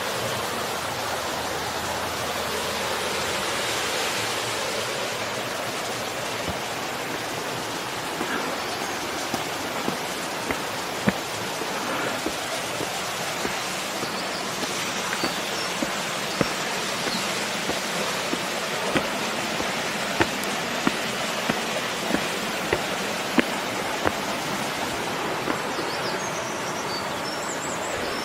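Steady rush of flowing mountain water, an even hiss with no let-up. From about a third of the way in, light sharp ticks sound about once a second for a while, then stop near the end.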